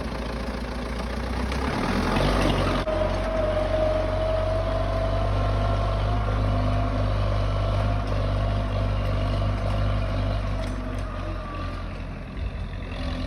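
Belarus MTZ tractor's diesel engine running as the tractor drives, its note picking up about two seconds in and then holding steady, with a whine riding over it for a few seconds; it eases off slightly near the end.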